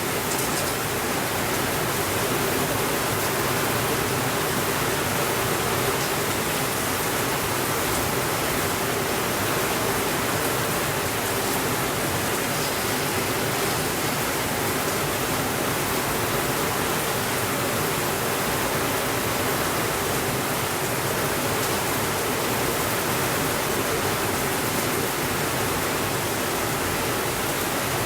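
Steady rainfall, a dense even hiss with no change in level, with a few faint ticks now and then.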